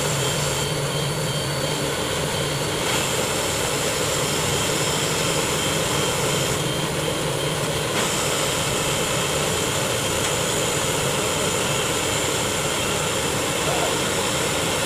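Heavy diesel tow-truck engines running steadily under load during a truck recovery, a constant loud rushing drone with a low hum.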